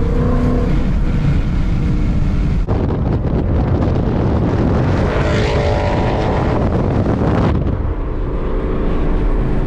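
Car engine and exhaust while driving, the engine note climbing as it accelerates about halfway through, with wind on the microphone.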